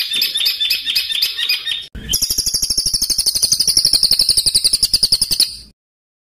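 Songbird singing harsh, rapid song phrases: a quick run of repeated high notes, a brief break about two seconds in, then a higher, faster trill that cuts off suddenly shortly before the end.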